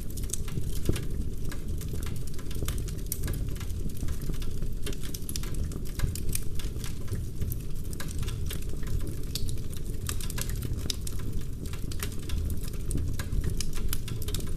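Wood fire burning in a fireplace, crackling with many quick irregular pops and snaps over a steady low rush of flame.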